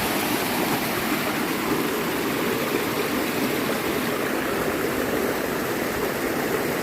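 Waterfall and river water rushing steadily, an even, unbroken wash of noise.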